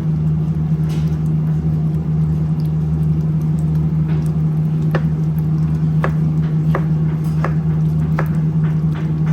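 A steady low hum runs under a spoon or spatula clicking and scraping against a cooking pot at irregular moments, as tomato is stirred into a curry masala.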